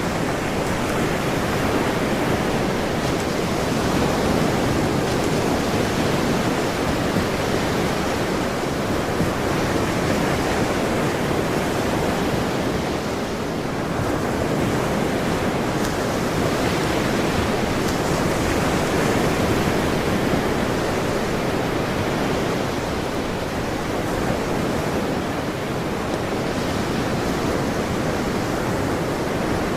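Ocean surf washing ashore, a continuous rush of water that swells and eases slowly in long waves.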